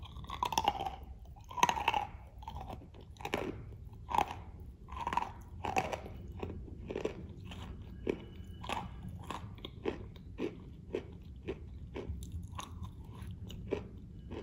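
Close-up chewing of a crunchy "Matryoshka" cookie with whipped cream: a steady run of crisp crunches, roughly two a second, loudest in the first few seconds.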